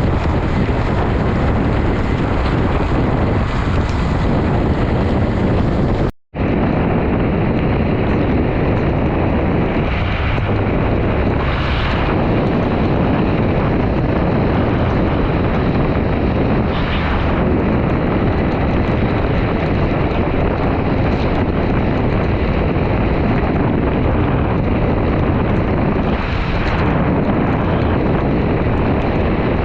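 Heavy wind rushing over the microphone of a motorcycle rider at speed, with a brief dropout about six seconds in.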